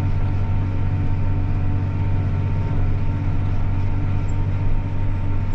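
John Deere 8300 tractor's six-cylinder diesel engine running steadily under load in a high gear while working a field, a constant low hum.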